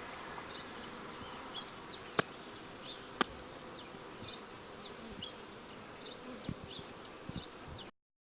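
Honeybees buzzing as they fly around their new hive, orientating to it, a steady hum. Two sharp clicks come about a second apart, and short high chirps sound throughout. The sound cuts off suddenly near the end.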